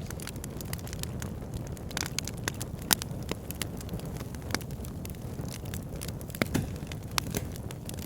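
Wood fire in a backyard fire pit burning, with a steady low rumble of flames and irregular sharp crackles and pops, the loudest about three seconds in and another cluster near six and a half seconds.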